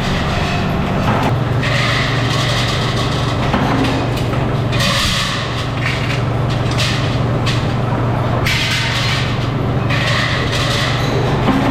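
Metalworking machinery in a motorcycle wheel-rim factory, running with a steady low hum. Every few seconds a harsher, noisier stretch lasting a second or two rises over the hum.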